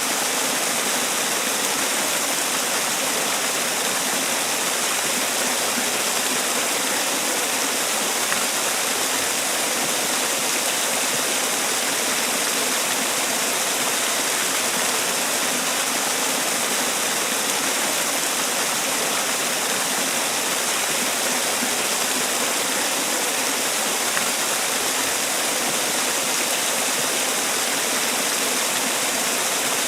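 Man-made waterfall: water falling and splashing in a steady, unbroken rush, with no change in level.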